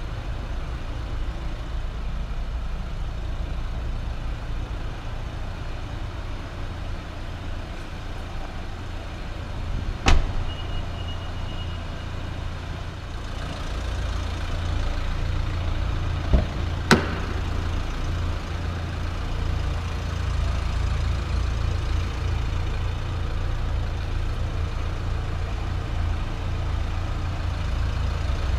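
Nissan Juke 1.5 dCi turbodiesel four-cylinder engine idling with a steady low rumble. A few sharp clicks or knocks come through, one about ten seconds in and two close together about seventeen seconds in.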